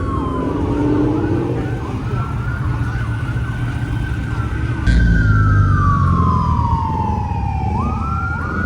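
Police siren wailing, its pitch sliding slowly down and back up, with a second siren faintly overlapping. Underneath is a low rumble of car engines that grows louder about five seconds in.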